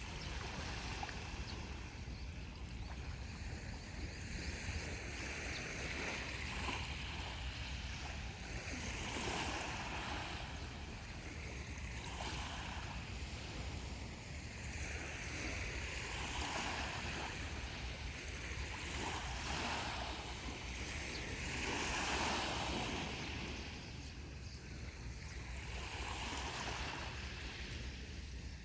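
Sea waves breaking and washing up a beach, swelling and fading every few seconds, with a low wind rumble on the microphone.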